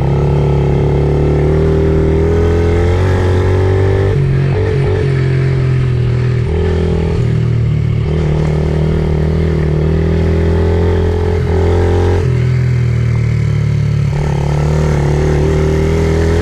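Pit bike engine running steadily, its pitch dropping and rising in steps several times as the throttle is eased and opened.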